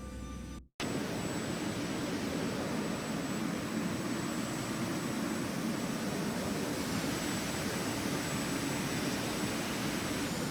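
A brief end of music cuts off just under a second in. It is followed by the steady rushing noise of a jet airliner, engines and airflow, with a thin high whine over it.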